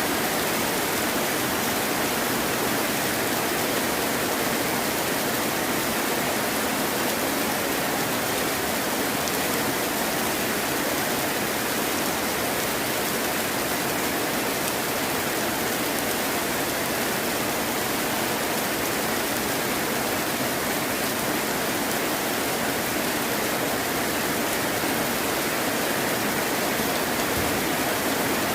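Heavy rain falling in a steady, dense hiss, with no thunder and little low rumble.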